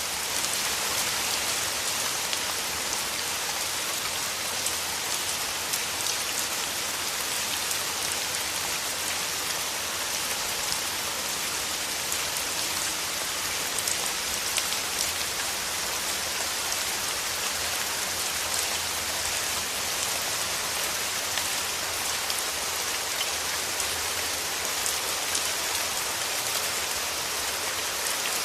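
Steady rain falling through forest trees, a dense even hiss with many fine individual drop patters.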